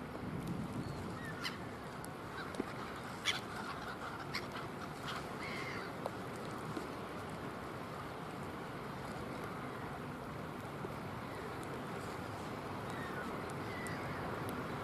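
A few short bird calls, mostly in the first six seconds, over a steady hiss of wind and water.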